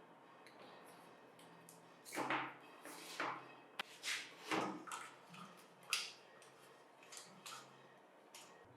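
Parts and tools being handled on a workbench while the bench grinder is reassembled: a string of short knocks and clicks, the loudest a little over two seconds in and around four and a half and six seconds in.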